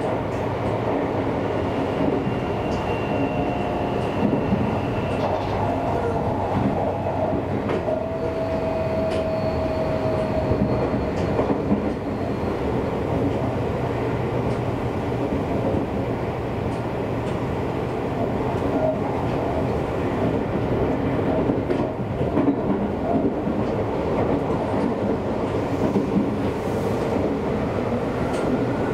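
Seibu Railway commuter train running along the line: a steady rumble of wheels on rails with scattered clicks of the rail joints. A few faint, brief squealing tones come and go in the first half.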